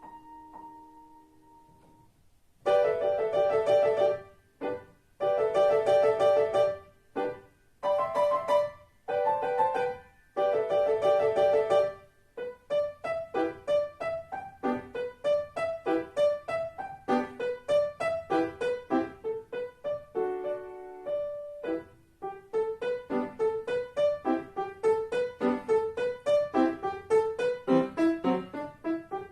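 Solo piano: a held chord fades out, then loud repeated chords come in short blocks with brief gaps, giving way to quick running notes that climb in repeated rising runs.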